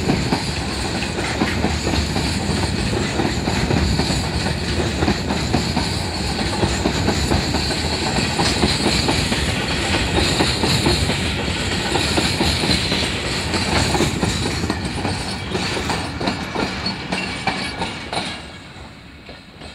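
Empty coal hopper wagons of a freight train passing close by at speed, their wheels clattering steadily over the rail joints. The sound falls away near the end as the last wagon, the brake van, goes by.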